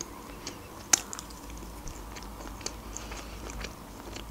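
A person chewing food with the mouth close to the microphone: soft, wet mouth clicks and smacks, with one sharper click about a second in.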